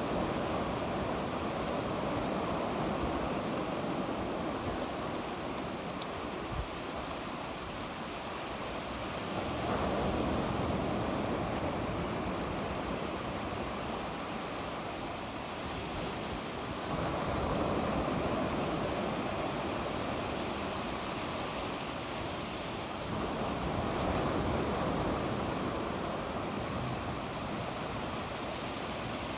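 Sea waves breaking and washing on the shore, a steady surf wash that swells louder about every seven seconds as each wave comes in, with some wind on the microphone.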